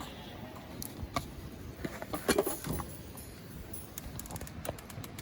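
A series of small clicks and knocks from objects being handled, loudest in a cluster a little over two seconds in, with quicker light ticks near the end.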